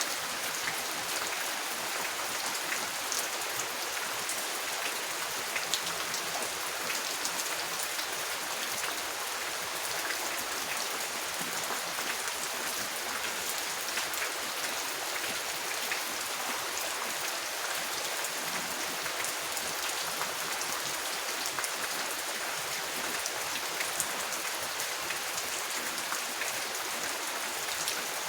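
Steady rain, an even hiss with many small drops pattering close by.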